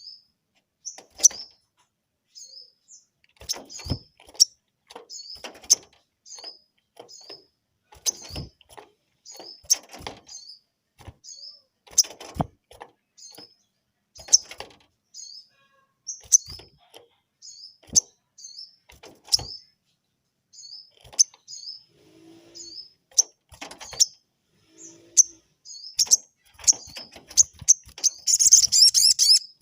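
Sogon bird calling in a steady series of short, high, hooked chirps, one or two a second, agitated in answer to a rival's call. Sharp knocks come between the chirps, and a dense rapid burst of calling rises near the end.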